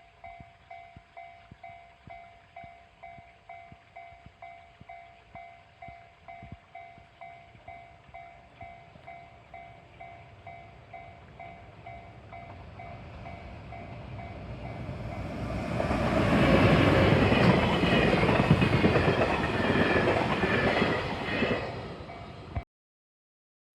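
Japanese level-crossing warning bell ringing in a steady repeating ding. A train then approaches and passes close by with a growing rumble of wheels on rails that drowns out the bell, before the sound cuts off abruptly near the end.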